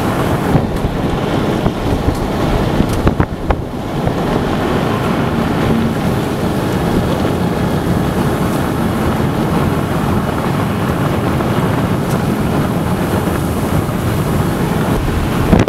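Strong wind buffeting the microphone: a loud, steady rushing noise heavy in the low end, easing briefly about three seconds in.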